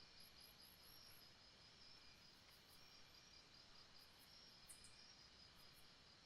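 Faint jungle ambience: insects trilling steadily, with a quick run of short, very high chirps near the start and a few more about two-thirds of the way in.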